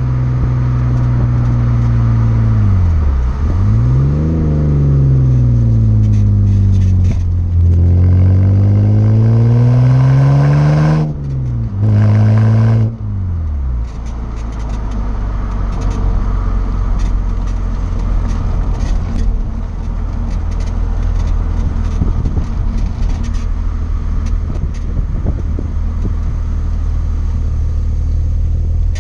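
2006 BMW 330i's straight-six through a Rogue Engineering aftermarket exhaust, the engine note rising and falling as the car speeds up and slows. The pitch drops sharply about eleven seconds in, like a gear change, and climbs briefly again. About fourteen seconds in it falls away to a steadier, lower engine and road noise.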